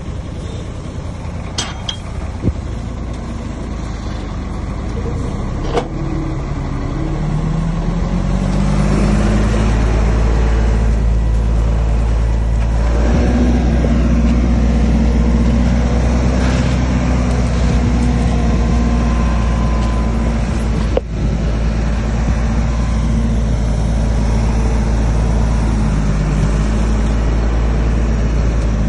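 Heavy diesel engine of earthmoving machinery: it rises in pitch and grows louder a few seconds in, then runs loud and steady under load. A few sharp knocks sound over it.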